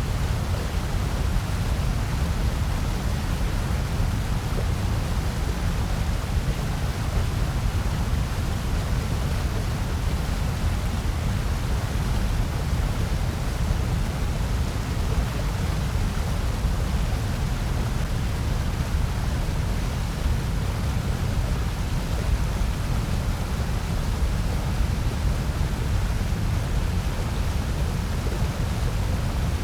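Steady generated noise from a white noise track, an even hiss without any events, heaviest in a deep low rumble with a softer hiss above.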